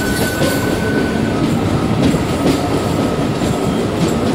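Two Indian suburban electric local trains running side by side at close quarters: steady rumble and clatter of wheels on rail, heard from an open coach doorway. A thin steady whine runs over it and drops slightly in pitch about a second and a half in.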